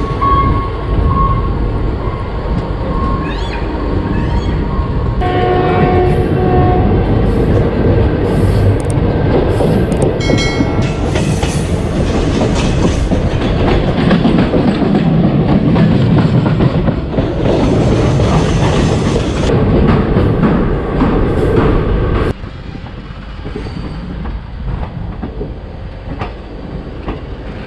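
Shaheed Express passenger train running, heard from an open coach door: loud wheel and rail noise with clickety-clack over the rail joints. A horn sounds briefly about five to seven seconds in, and the noise gets much quieter about 22 seconds in.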